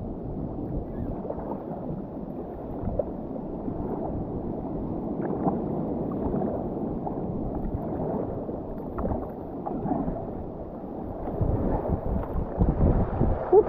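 Sea water sloshing and splashing around a kayak in small surf, with wind on the microphone; a dull, low rush with little high end. The rush of water grows louder in the last couple of seconds as a wave comes through.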